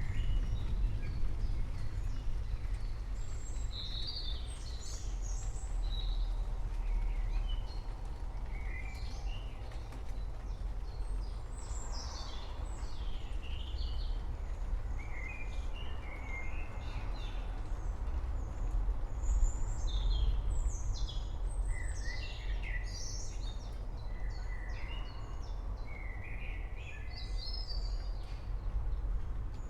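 Songbirds chirping and singing, many short quick notes and sweeps in a steady stream, over a continuous low rumble.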